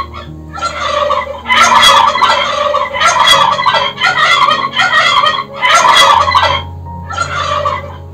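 Turkey gobbling over and over: about six loud gobbles, each roughly a second long, with short pauses between them.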